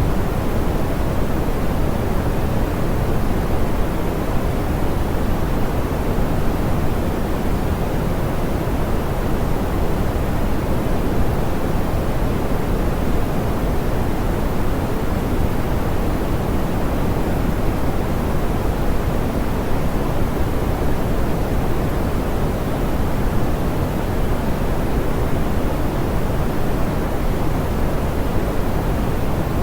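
Steady pink noise: an even, unbroken hiss weighted toward the low end, with the highs rolled off so that it sounds soft and smoothed.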